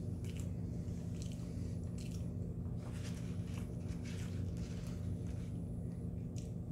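A person chewing a mouthful of burger with the mouth closed: soft, irregular wet clicks and crackles. A steady low hum runs underneath.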